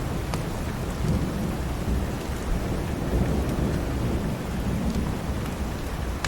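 Steady rain with a continuous low rumble underneath and a few sharp crackles of a wood fire in a fireplace.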